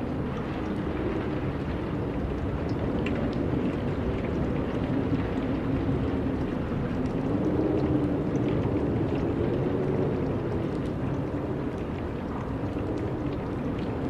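Steady wind blowing, with a low moaning tone that wavers up and down in pitch and swells a little around the middle.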